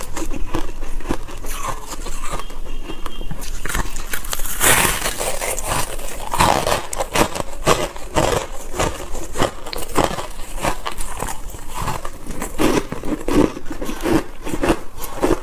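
Close-up crunching and chewing of soft white freezer frost, a dense run of crackly bites and grinding crunches with a louder burst about five seconds in.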